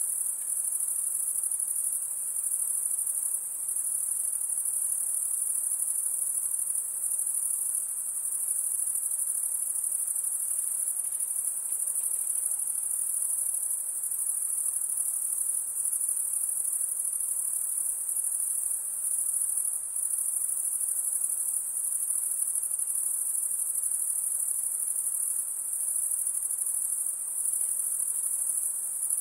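A continuous, very high-pitched chorus of insects trilling, steady and unbroken.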